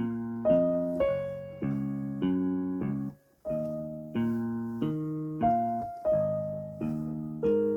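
Yamaha PSR-E373 portable keyboard playing a slow melody in its concert grand piano voice over left-hand chords in a split 60s clean guitar voice. Notes are struck about every half second and fade between strikes, with a brief break a little over three seconds in.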